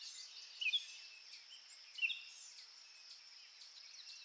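Faint birdsong: many small overlapping chirps, with a louder downward-slurred call twice, under a second in and about two seconds in.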